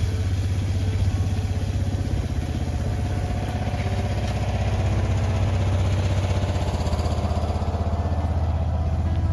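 An engine idling steadily with a rapid, even low throb.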